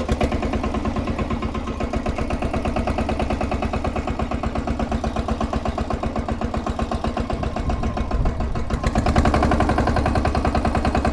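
18 HP diesel engine of a mini tractor tool bar idling just after starting, with a steady, fast, even knock. It runs a little louder from about nine seconds in.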